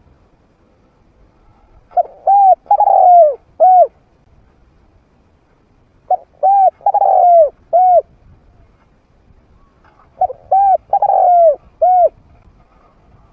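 Spotted dove cooing, a trained decoy bird with a medium-pitched voice: three call phrases about four seconds apart, each a short run of arching coos with one longer, rolling note in the middle.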